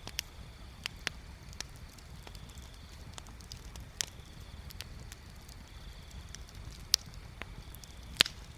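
Bonfire crackling, with irregular sharp pops and snaps from the burning wood over a steady low rumble; the two loudest pops come about a second apart near the end.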